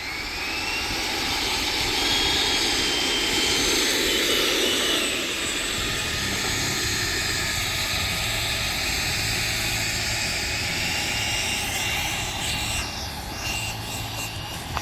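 A Freewing F-15 RC jet's 90mm electric ducted fan running, a high whine over a rush of air. The whine rises in the first second, holds and fades about five seconds in, and returns, steadier, in the last few seconds.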